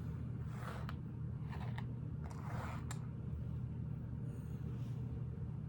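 Steady low electrical or fan-like hum, with a few faint rustles and sharp clicks of plastic Lego pieces being handled in the first three seconds.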